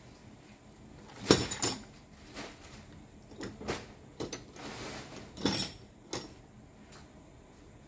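Metal parts and tools clinking and clattering as they are handled and set down during work on a demolition hammer, in a string of separate knocks, the loudest about a second in and again about five and a half seconds in. A short rough scraping sound comes just before the second loud clatter.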